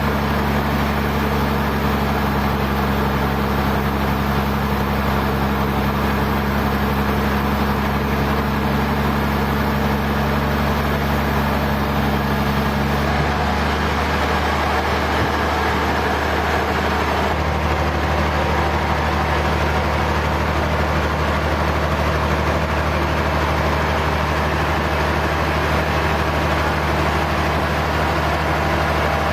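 Sawmill machinery running steadily: a heavy engine's low hum under a constant mechanical wash, with the engine note shifting about thirteen seconds in and again a few seconds later.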